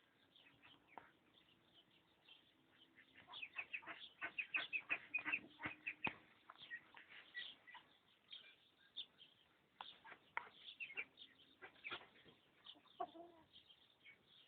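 Birds chirping: many short, high calls, with a fast, louder run of chirps about four seconds in.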